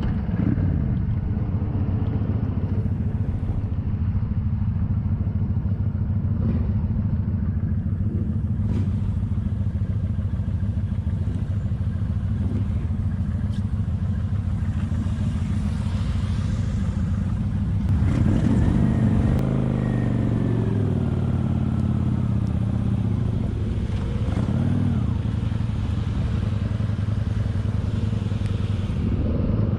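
Kawasaki Vulcan 900's V-twin engine running steadily while riding, heard from on the bike. A little past the middle the engine note rises and falls for a couple of seconds.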